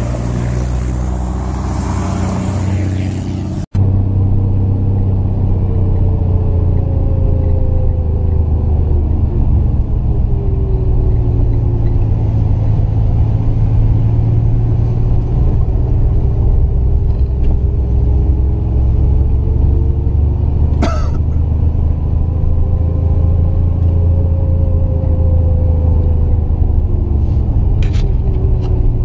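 Triumph GT6 Mk2's straight-six engine pulling uphill at moderate revs, its note rising and falling gently with the throttle. Wind noise is heavy for the first few seconds, then cuts out abruptly; a couple of short sharp clicks come later.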